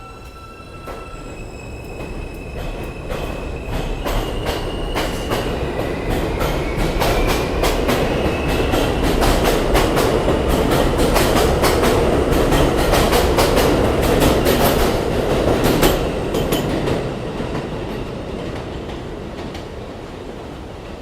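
New York City subway train on the elevated BMT Jamaica Line passing through the station. Its wheels clatter over rail joints in a rapid run of clicks, with high whining tones, one rising in pitch. The sound grows louder over several seconds, stays at its loudest for a while, then fades.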